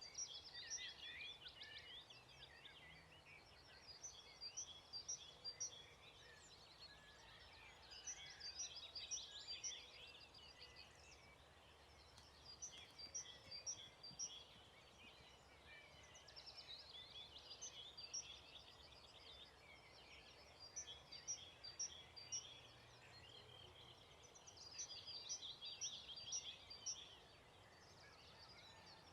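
Songbirds singing: a phrase of short high repeated notes and fast trills comes back about every four seconds, over faint steady background noise.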